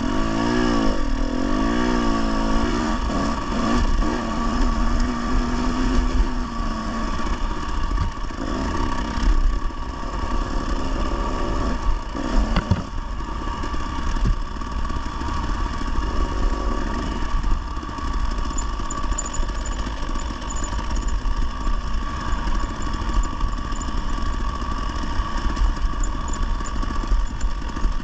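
Dirt bike engine running under load on a trail, its revs swinging up and down a few times in the first few seconds, then running more steadily, with one more change in revs about halfway through.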